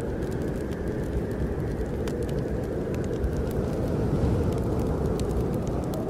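Steady, low snowstorm wind with scattered small crackles and pops of a wood fire burning in a fireplace.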